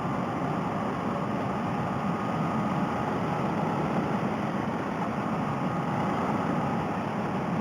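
Steady wind and road noise heard through a helmet headset microphone, with a Honda Rebel 250 motorcycle's engine running at an even cruising speed underneath.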